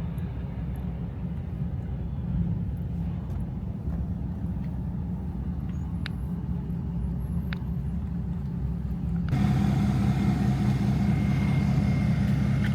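Truck engine running steadily with a low rumble; about nine seconds in the sound suddenly becomes louder and fuller.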